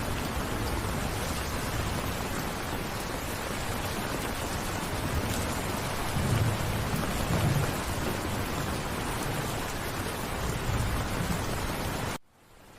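Steady heavy rain falling, with low rumbles of thunder about six to eight seconds in. Near the end the rain cuts out abruptly, then fades back up.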